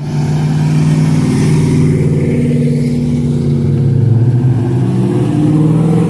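Car engine held at high revs, running at a near-steady pitch with slight wavering, while a drive tire spins in a burnout.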